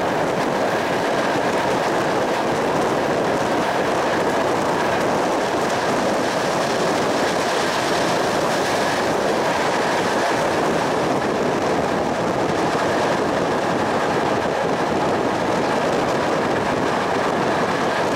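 Passenger train running at speed, heard from a carriage window: a steady rush of wheels on the rails and air past the carriage, with a faint steady whine above it.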